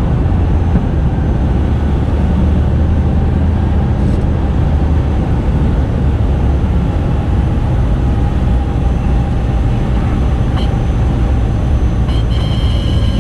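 Cessna 210K's six-cylinder Continental piston engine running steadily, a dense drone with a low even hum, and a thin high tone coming in near the end.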